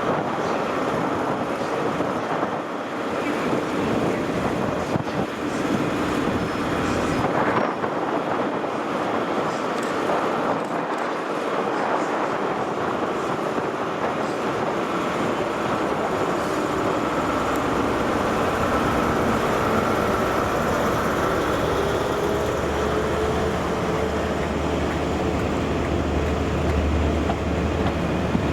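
ScotRail HST with Class 43 diesel power cars, engines running steadily in the station. In the second half the engine note slowly rises in pitch, and a low hum comes in near the end.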